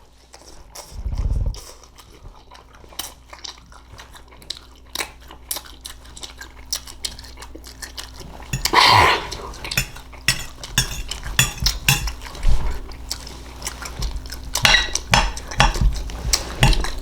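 Eating utensils clinking and scraping against a dish of green beans: many irregular light clicks, thicker toward the end, with a low thud about a second in and a louder, noisy half-second sound about nine seconds in.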